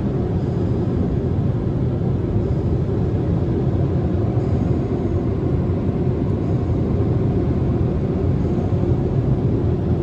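Steady, unbroken low rumble of automatic car wash machinery around a car, with a faint steady hum.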